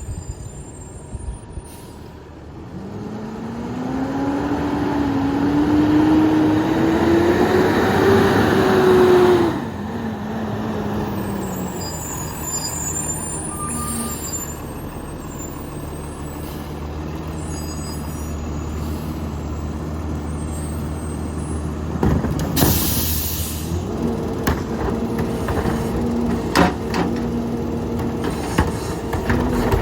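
Peterbilt 348 rear-loader garbage truck's engine revving up with a steadily rising pitch as the packer runs, then dropping back to a steady lower run. A short, sharp air hiss comes about two-thirds of the way through, and the engine steps up in speed again near the end.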